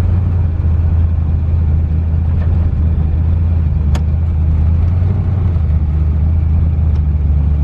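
Twin-turbo LS V8 engine of a Fox body Mustang running steadily at low revs, a deep even drone heard from inside the car, with a single sharp click about four seconds in.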